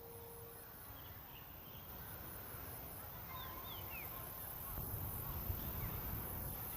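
Faint background hiss with a few short, falling bird chirps scattered through it.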